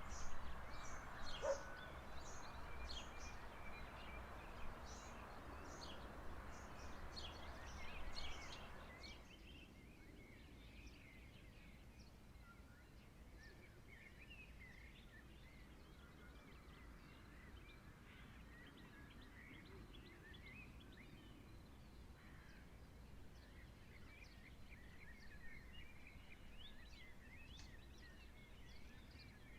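Small birds chirping with many short, high calls over a steady hiss. The hiss cuts off suddenly about a third of the way through, and fainter chirping goes on over a quiet background.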